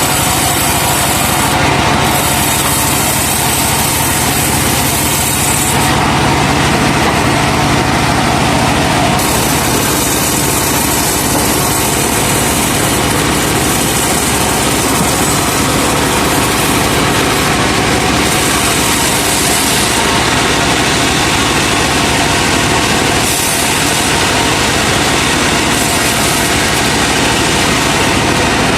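Truck-mounted sawmill running: the truck's engine drives the saw with a loud, steady noise. The high part of the sound changes every few seconds, as the cut through the laban log goes on.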